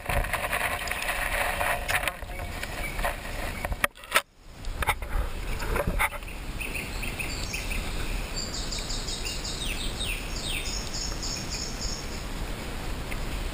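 Steady outdoor background noise, with a small bird singing a quick run of high, repeated chirps for a couple of seconds about two-thirds of the way through.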